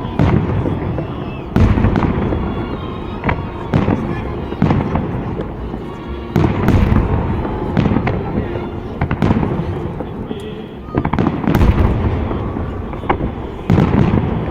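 Fireworks display: aerial shells bursting with loud booms every second or two, each followed by crackling.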